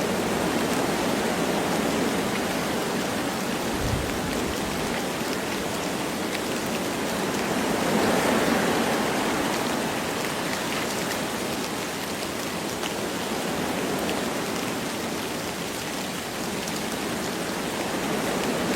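Wind blowing through forest trees with light rain falling: a steady rushing that swells and eases, with faint scattered drop ticks.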